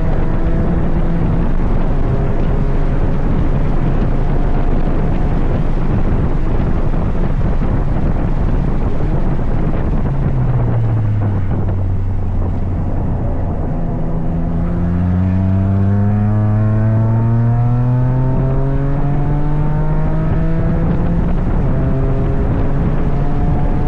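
Toyota GR Yaris's 1.6-litre turbocharged three-cylinder engine running hard on track over heavy wind and road noise. About ten seconds in the engine note drops and stays low as the car slows, then climbs steadily for several seconds as it accelerates again.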